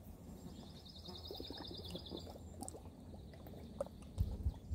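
A bird's high, rapid trill lasting about a second and a half, over a quiet outdoor background. Near the end there are soft handling bumps and clicks as a plastic water bottle is tipped up to drink.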